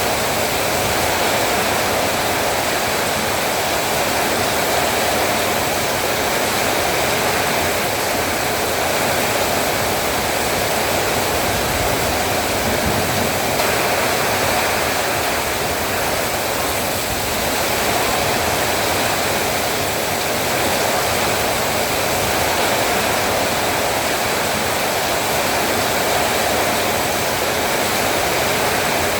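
Heavy rain falling in a steady downpour, an even rushing hiss with no breaks or separate drops standing out.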